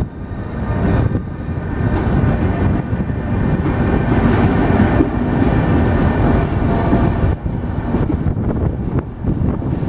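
A train running past close by: a loud, steady rumble with a few faint steady tones over it.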